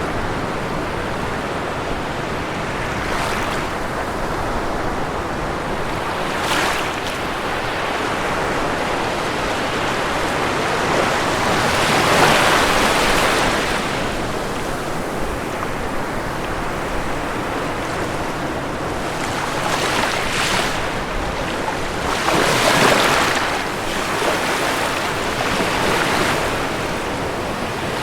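Ocean waves breaking on a shore with a steady wash of surf. Several waves swell up and break through it, the loudest about twelve and twenty-three seconds in.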